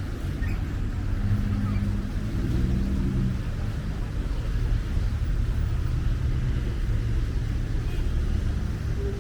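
City street traffic: motor vehicles running and passing, a steady low rumble with a passing engine's hum in the first few seconds.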